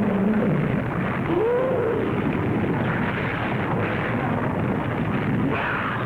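Steady, dense rumbling noise of a volcanic eruption on an old film soundtrack, with a couple of short wavering tones rising and falling over it, one right at the start and one about a second and a half in.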